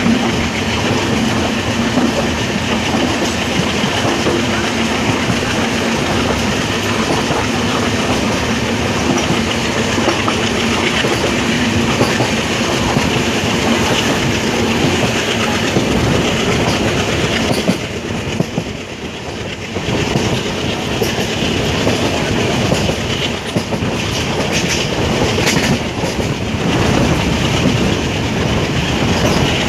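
Passenger train running along the track, wheels clattering over the rail joints with steady running noise; the sound dips for a couple of seconds about two-thirds of the way through.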